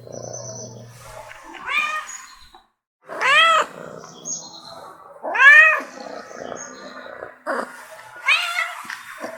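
Domestic cat meowing four times, a couple of seconds apart, each meow rising then falling in pitch, with a low steady purr between the meows.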